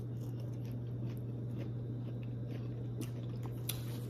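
A person chewing a mouthful of crispy fried whiting, with faint crunchy clicks, over a steady low hum.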